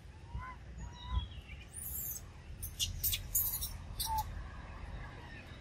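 Birds chirping and calling, in short pitched notes and quick glides. There are several short scratchy noises about two to four seconds in, over a low rumble.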